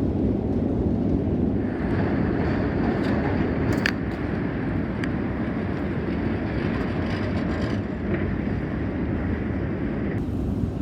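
Kyiv Metro train running underground: a steady rumble.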